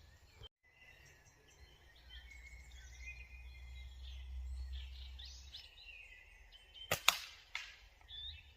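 Songbirds singing and chirping, with a low wind rumble on the microphone through the middle. Two sharp clicks about seven seconds in are the loudest sound.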